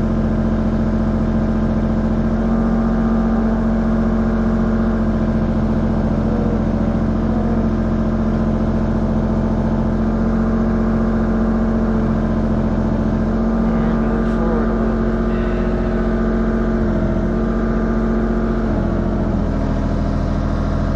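Mini excavator's diesel engine running steadily at a raised throttle, with some small shifts in its low note about two-thirds of the way through. The engine is cold and still warming up.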